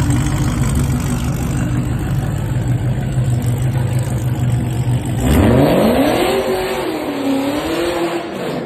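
Supercharged V8 of a modified, 1000 hp Cadillac CTS-V coupe running at a steady low idle. About five seconds in it revs up hard as the car pulls away, its pitch climbing steeply and then rising and falling as it accelerates off and fades.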